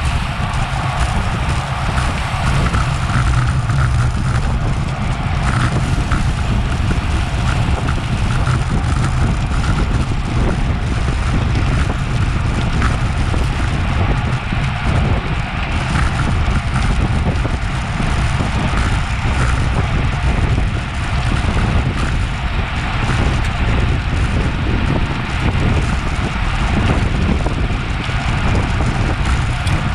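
Steady wind rushing over a Garmin VIRB action camera's microphone on a road bike moving at race speed, a loud low rumble of wind and road noise.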